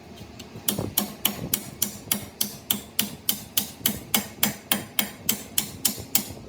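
A hammer striking metal in a fast, steady rhythm, about twenty blows at three to four a second, each with a short ring.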